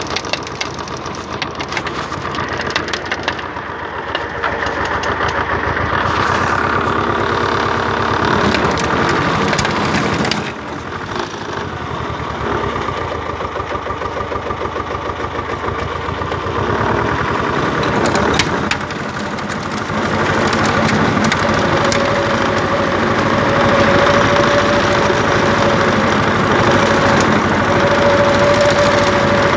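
Pasquali 983 tractor's engine running. It dips briefly about ten seconds in, then grows louder about twenty seconds in, where a steady whine comes up and holds.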